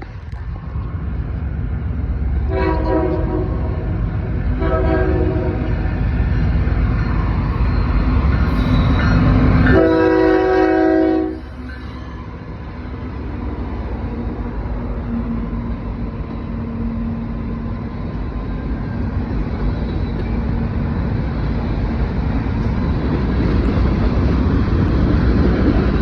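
Norfolk Southern freight train's diesel locomotive sounding its air horn three times, the third blast the loudest, over a steady engine rumble. After the third blast the rumble falls away, then grows louder again.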